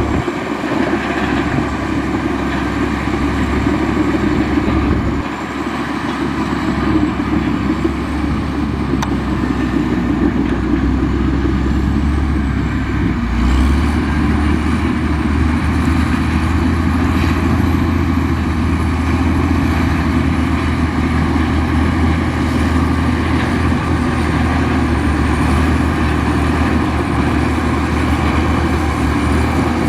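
Heavy diesel engine of a Komatsu bulldozer running steadily under load. Its note steps up about halfway through, and a faint high whine rides over it.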